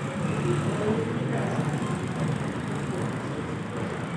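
Metro station ambience: a steady low rumble with faint voices in the background.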